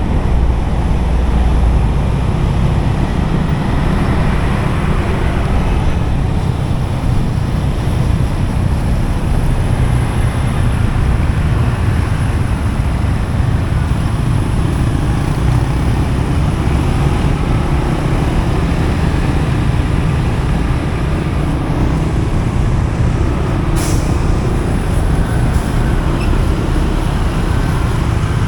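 Road noise from riding a motorcycle in heavy highway traffic: a steady low rumble of engines and tyres. A short, sharp hiss comes near the end.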